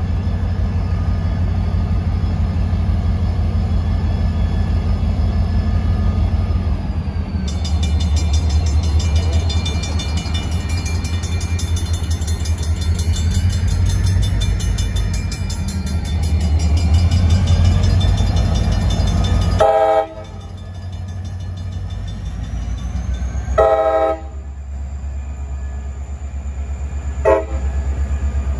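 Diesel locomotives rumbling low and steady as they pull a train. For a long middle stretch a grade-crossing bell rings rapidly over the rumble; after that the locomotive horn sounds three short blasts, the last near the end.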